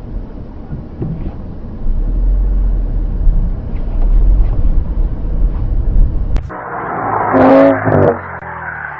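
A moving car's low, steady rumble of road and wind noise. About six and a half seconds in, it cuts off with a click to a louder, hissier sound with a brief pitched tone in it.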